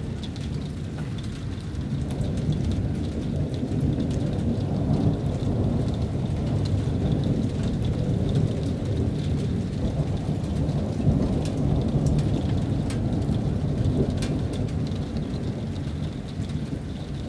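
Thunderstorm: steady rain with a continuous low rumble of thunder, growing a little louder after a couple of seconds, and scattered sharp ticks of drops striking near the microphone.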